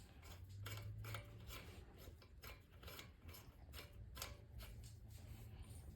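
Faint, scattered small clicks and rubbing: the compression tester's hose being threaded by hand into the spark plug hole of a Honda XR70R engine.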